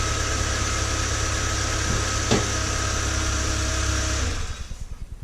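Renault F4R four-cylinder engine of a Scenic RX4 idling steadily, just restarted after its dephaser (cam phaser) pulley was replaced, then switched off and running down about four seconds in.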